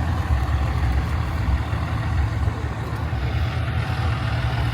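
A truck engine running steadily at idle, a constant low-pitched sound with no revving.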